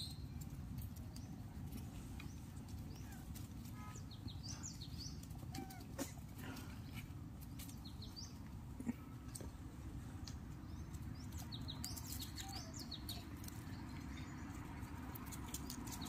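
Faint outdoor ambience: a steady low rumble with scattered short, high bird chirps, and a couple of soft clicks about six and nine seconds in.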